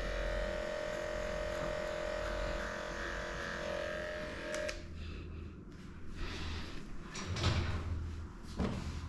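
Electric dog grooming clippers running with a steady hum, switched off a little before halfway with a click. Then irregular knocks and rustles of handling.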